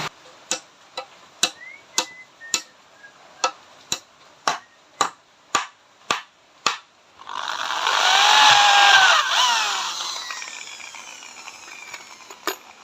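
A hammer striking wood about a dozen times in a steady rhythm of about two blows a second. It is followed by a power tool running for about three seconds, its pitch rising and then falling as it winds down.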